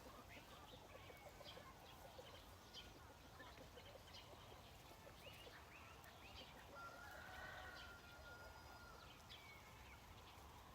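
Faint, distant rooster crowing: one drawn-out call of about two seconds that starts some seven seconds in, over an otherwise near-silent rural background with scattered faint chirps.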